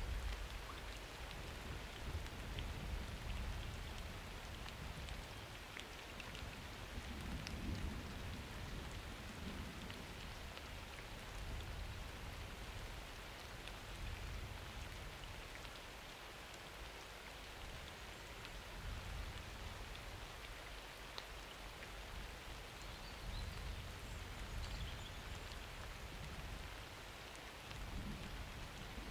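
Steady rain falling during a summer thunderstorm, an even patter with scattered drop ticks. Low distant thunder rumbles swell and fade several times beneath it.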